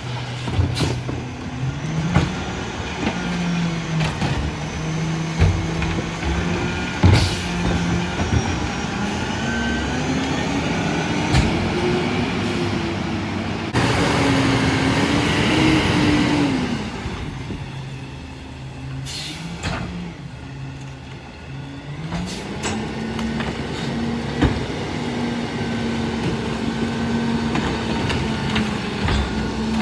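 Freightliner M2 McNeilus rear-loader garbage truck's diesel engine speeding up and dropping back twice, with a burst of hiss about halfway through and scattered clanks.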